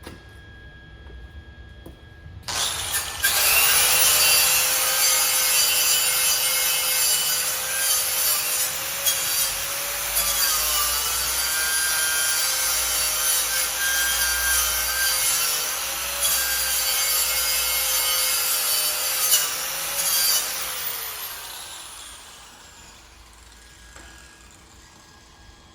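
An electric angle grinder working metal on a car's exhaust parts: it starts about two and a half seconds in, runs for roughly eighteen seconds with its motor whine wavering under load, then spins down with a falling whine after it is switched off.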